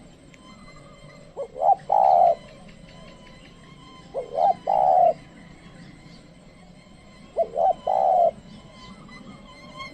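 Spotted dove cooing: three phrases about three seconds apart, each two short notes and then a longer one. It is a trained decoy dove calling to lure wild doves.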